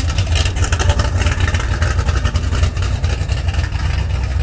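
A classic car's engine running loudly with a deep, steady low exhaust rumble.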